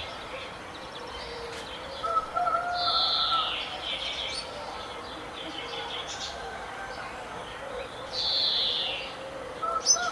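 Birds calling and chirping, with louder calls, each falling in pitch, about two seconds in and again near the end.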